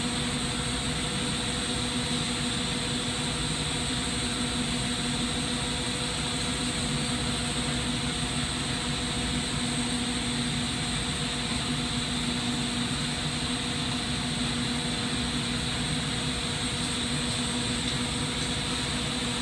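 Steady hum and rushing of a glassblowing shop's exhaust hood fan together with the hiss of propane-oxygen torch flames, unchanging throughout.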